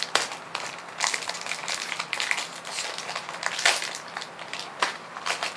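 Foil Pokémon card booster pack wrapper being handled and opened, crinkling in an irregular run of sharp crackles and rustles.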